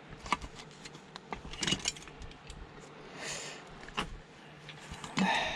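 Scattered light metallic clicks, taps and clinks of small metal parts and tools being handled during a teardown, with a short scrape about three seconds in and another near the end.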